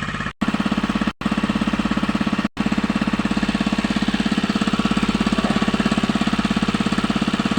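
A small engine running steadily with a fast, even chugging pulse. The sound drops out suddenly three times in the first few seconds.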